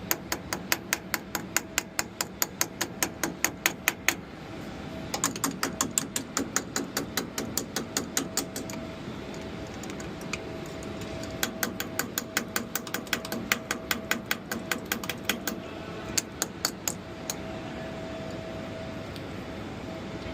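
Ratchet wrench clicking in quick, even runs of about five clicks a second, in several bursts with short pauses, over a steady faint hum.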